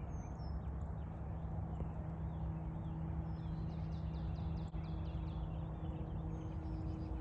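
Birds chirping: many short high calls, thickest in the middle, over a steady low hum.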